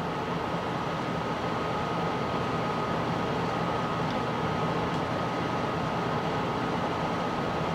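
Steady background noise in a pause between words: an even hiss with a low hum and a thin, steady high whine, unchanging throughout.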